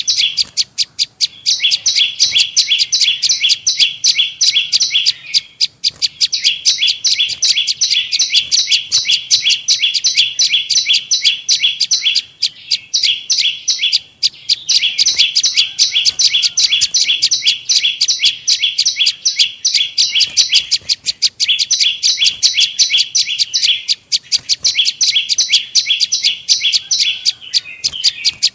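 Prenjak lumut (a small Indonesian prinia-type warbler) calling as a bird-trapping lure: a fast, loud, high-pitched chattering trill of about seven notes a second. It comes in bouts of a few seconds, each broken off by a brief pause.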